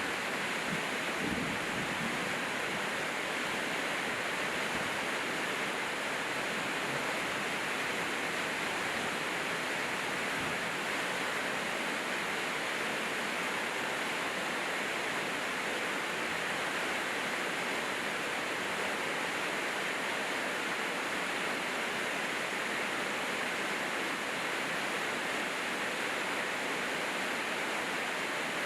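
Steady rain falling, a dense, even hiss that does not change in level.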